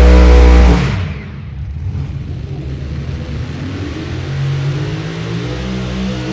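Unlimited modified pulling tractor's engines at full throttle, cutting off sharply just under a second in. A lower engine rumble follows and builds again after about four seconds.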